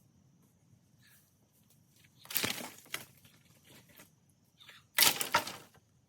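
Two short crashing, crunching noises, about two and a half seconds apart, each lasting about half a second.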